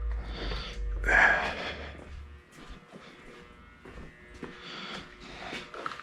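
Workshop handling noises: a short, loud, hissing burst about a second in, then scattered light clicks and clatter of tools and parts being moved.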